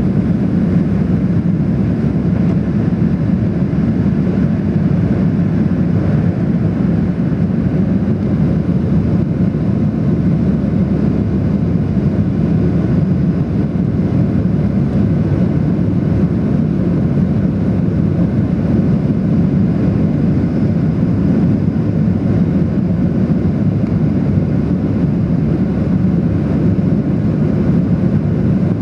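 Steady jet engine and airflow noise heard inside the cabin of a Boeing 737-800, a constant deep roar with no change in pitch or level.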